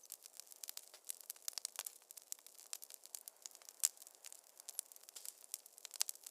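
Wood fire crackling in a fireplace: a dense run of irregular sharp pops and snaps over a faint hiss, with one louder pop near the middle.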